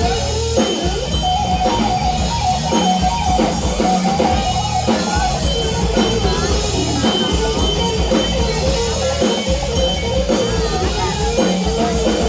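Live rock band playing an instrumental passage: a guitar carrying the melody over a drum kit beat, with no singing.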